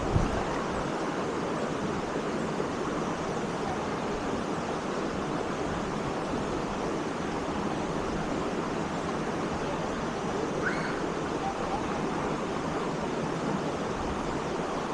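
Waterfall's steady rush of falling water. A brief thump sounds just after the start.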